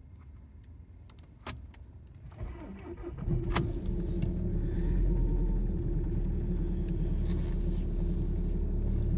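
A diesel vehicle engine starting about two and a half seconds in and then running at a steady idle in frost, after a couple of sharp clicks.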